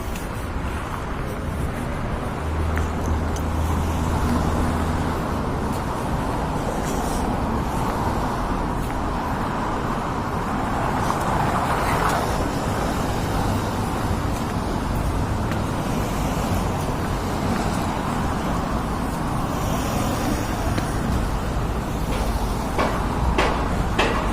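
Steady city street traffic noise as cars pass, with a vehicle's low engine hum a few seconds in and a few sharp clicks near the end.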